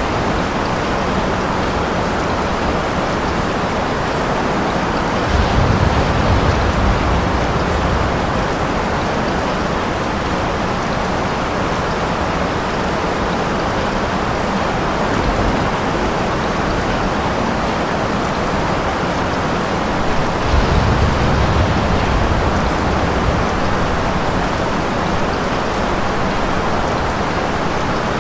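Steady heavy rain with two low rumbles of distant thunder, one about five seconds in and another about twenty seconds in.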